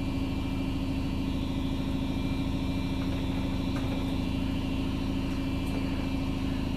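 Steady electric-motor hum of running shop machinery, with a strong low tone and a fine, even chatter, unchanging in level.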